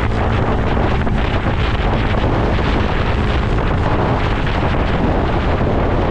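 Strong wind buffeting the microphone, steady and loud, with a faint low engine hum underneath.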